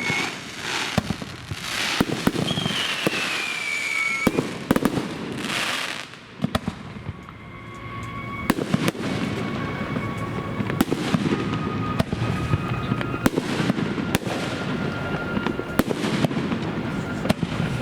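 Aerial fireworks going off in a rapid series of bangs and crackling pops. A whistle falls in pitch about three seconds in, and the popping grows denser after a short lull around the middle.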